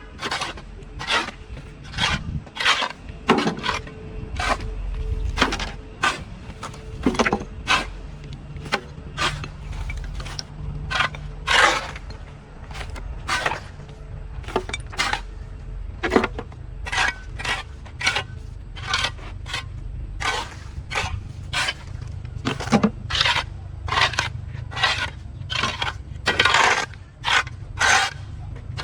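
A hand tool scraping and chopping at weeds and ground in steady repeated strokes, about one and a half a second.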